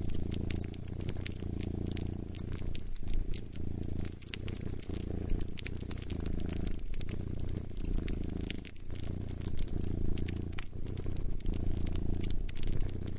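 A cat purring, in rhythmic pulses of about a second or two with each breath, mixed with the pops and crackles of a burning fire.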